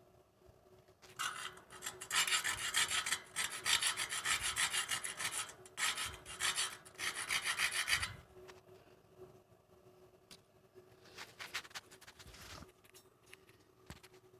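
Rapid rasping scrapes for about seven seconds, then a shorter, fainter run of them near the end.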